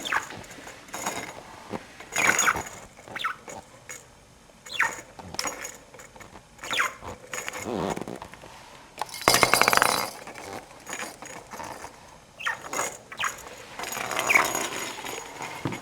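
Budgerigar giving short falling chirps and scratchy chatter, mixed with small clicks, with a dense rattling burst about nine seconds in.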